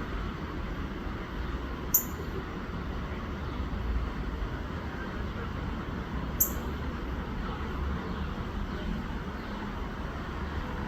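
A bird gives two sharp, high chip notes about four seconds apart, over a steady low rumble.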